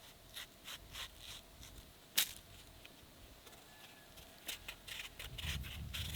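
Light clicks and scrapes of objects being handled, with one sharp click about two seconds in and a denser run of them near the end over a low rumble.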